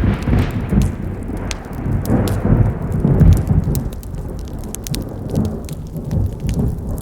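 Wood campfire crackling with sharp pops, under a loud, low rumble that swells and fades.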